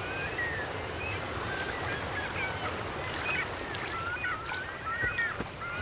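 Several birds calling in short chirps and wavering whistles, scattered throughout, over a steady hiss of background noise.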